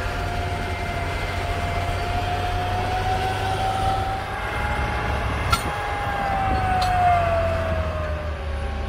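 Heavy farm machinery running under load: a low engine drone with a high whine that slowly rises in pitch and then falls away near the end. Two short sharp clicks come a little past the middle.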